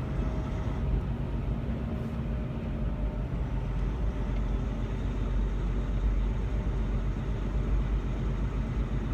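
Semi-truck tractor running without a trailer, heard as a steady drone of engine and road noise inside the cab.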